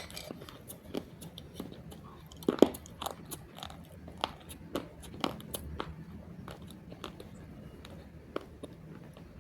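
Crisp crunches and chewing as lumps of roasted multani mitti (Fuller's earth clay) are bitten and chewed close to the microphone, the loudest bite about two and a half seconds in, the crunching thinning out over the last few seconds.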